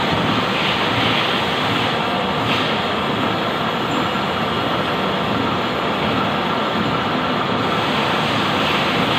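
Lathe running, a loud, steady and even mechanical noise with faint swells in the upper range.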